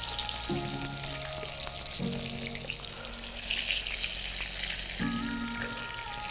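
Chopped spring onion and celery sizzling in a frying pan as they are stirred with a spoon, a steady hiss of frying. Background music with sustained chords plays along.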